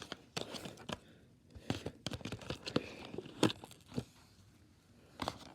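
Crinkling of a gift bag and light knocks and clicks as items are handled and packed into it, in short irregular bursts.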